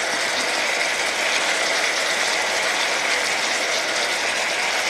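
Beef chunks with peppers and carrots sizzling steadily in oil in a wide pan, a fine even crackle.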